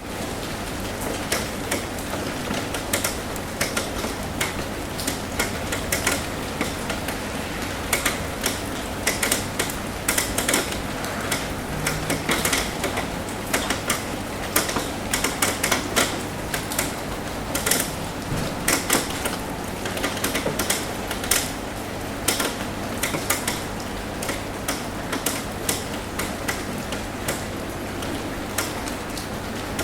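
Rain falling on a roof: a steady hiss with many irregular, sharp taps of drops striking the roof, thickest through the middle of the stretch.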